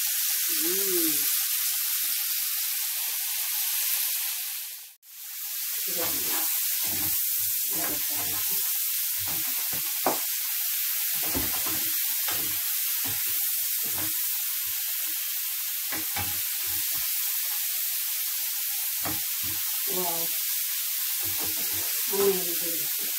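King prawns sizzling in butter and oil in a nonstick frying pan, a steady hiss that drops out briefly about five seconds in. From about six seconds on, wooden spatulas scrape and knock against the pan again and again as the prawns are turned.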